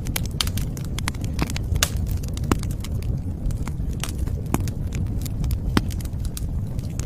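Wood fire crackling and popping irregularly over a steady low rumble of the flames.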